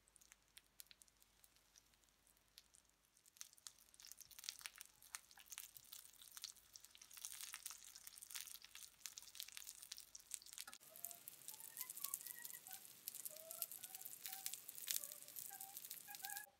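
Egg-battered sulphur shelf (chicken-of-the-woods) mushroom cutlets sizzling and crackling in hot oil in a frying pan. The crackle grows denser from about three seconds in, and over the second half short high squeaky chirps sound through the sizzle.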